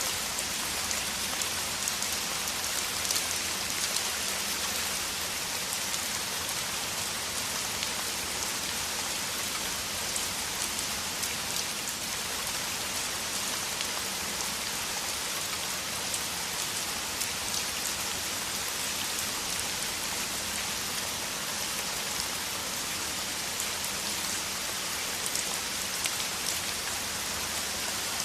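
Heavy, steady downpour of rain, an even hiss of countless drops with faint crackles of individual drops hitting.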